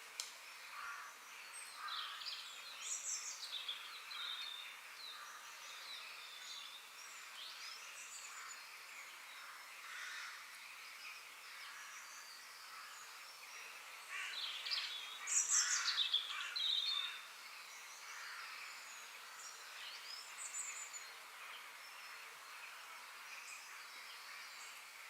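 Forest ambience: various birds calling and chirping over a steady outdoor hiss, with a livelier flurry of calls just past the middle.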